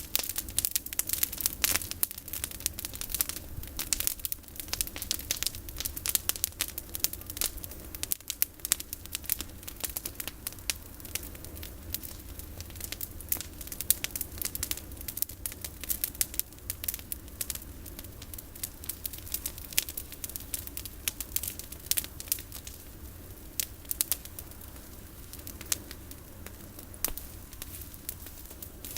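Campfire of olive-tree prunings crackling, with many sharp snaps and pops that come thick at first and thin out over the latter part.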